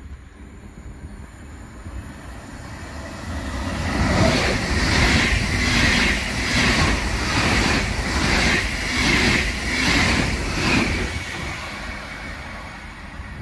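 Rhein-Ruhr-Express (RRX) Siemens Desiro HC double-deck electric train running past the platform. Its wheel and rail noise swells in, runs loud with a regular pulse a little faster than once a second, then fades away near the end.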